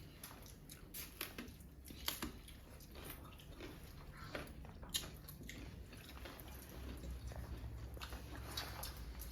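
Person eating close to the microphone: faint chewing with scattered small wet clicks and smacks.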